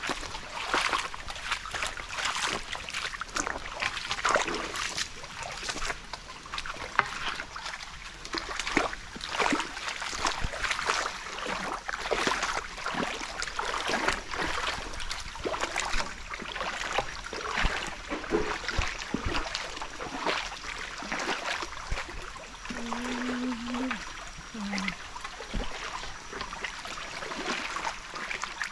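Water splashing and trickling, with many irregular splashes in close succession.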